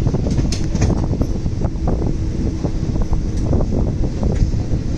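Express passenger train running along the track, heard from inside a coach: a continuous rumble of wheels on rail with irregular clicks and knocks, and wind noise on the microphone.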